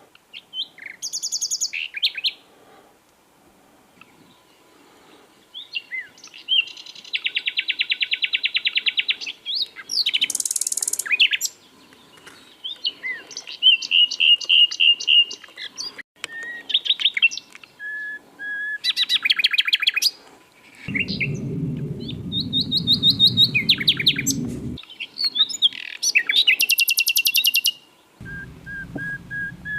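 Common nightingale singing: a string of varied phrases with short pauses between them, mixing fast trills of repeated notes, drawn-out whistles and buzzy rattles. A low rumble joins in for a few seconds about two-thirds of the way through, and again near the end.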